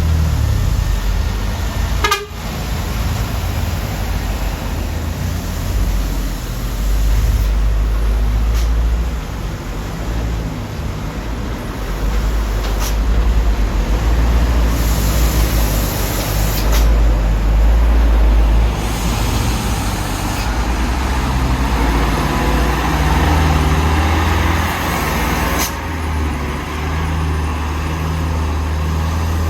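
Diesel engine of a heavily overloaded Mitsubishi Canter truck running under load, a deep steady drone that changes abruptly several times.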